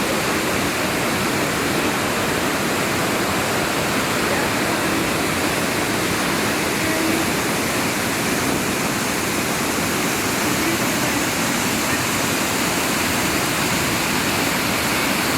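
Steady rushing of falling water, a continuous even roar at constant level.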